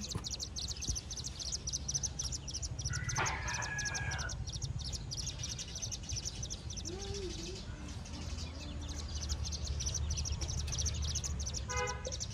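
Buff-banded rail chick peeping: a rapid string of short, high-pitched peeps, many a second, with a brief pause past the middle and a couple of louder single calls, one about three seconds in and one near the end. A low rumble runs underneath.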